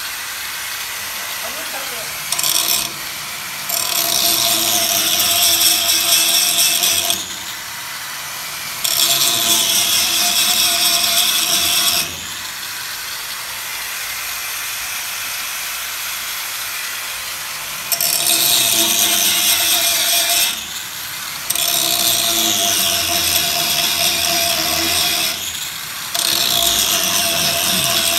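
Power tool working steel bar stock, running in bursts of a few seconds each with short pauses between, and a longer lull near the middle.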